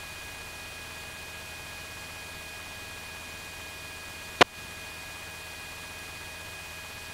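Steady radio channel static hiss with faint steady tones. A single sharp click cuts through about four seconds in.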